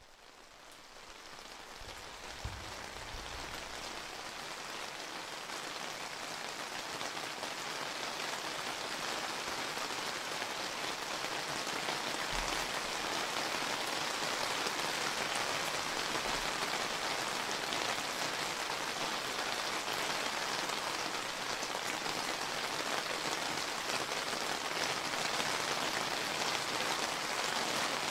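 Steady summer rain falling, a dense hiss of many drops on surfaces, fading in over the first few seconds. A few faint low thumps are heard now and then.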